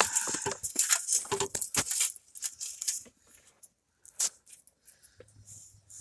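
Light metallic clinking and clicking, quick and busy for the first two seconds or so, then only a few scattered clicks.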